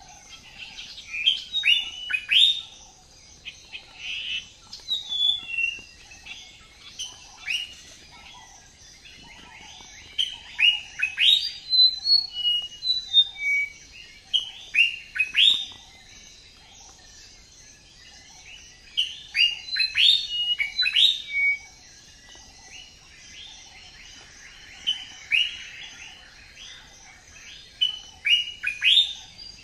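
Small birds chirping: quick, repeated downward-sweeping chirps coming in bursts with short pauses between them, over a steady faint high hiss.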